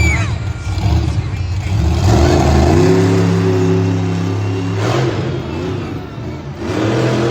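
Monster truck engine revving hard. It climbs about two seconds in, holds at high revs, drops off near five seconds, then revs up again near the end.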